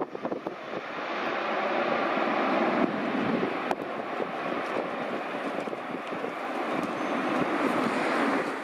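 Airbus A321-211 jet engines (CFM56) running with a steady, even jet noise.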